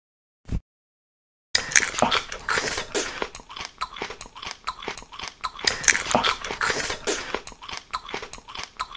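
A short click, then about a second of silence, then close-up crunchy biting and chewing of food in quick irregular crunches, an ASMR eating sound.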